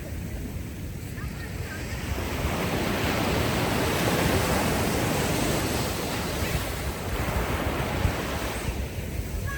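Ocean waves washing ashore: one wave swells in about two seconds in, peaks midway and draws back near the end, over a steady low rumble of wind on the microphone.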